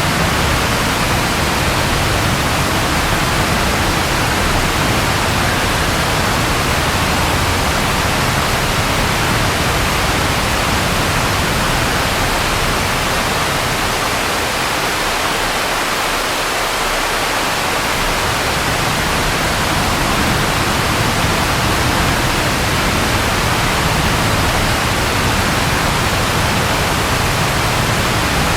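Steady rain falling, a dense even hiss. Under it is a low rumble that drops away about halfway through and then comes back.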